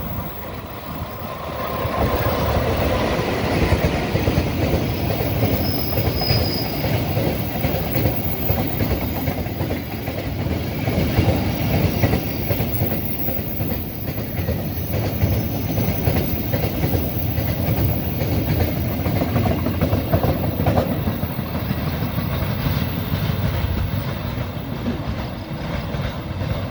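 Diesel locomotive hauling a train of fuel tank wagons past at close range, getting louder about two seconds in as it draws level. The wagons' wheels then rumble steadily over the track, with a brief high wheel squeal about six seconds in.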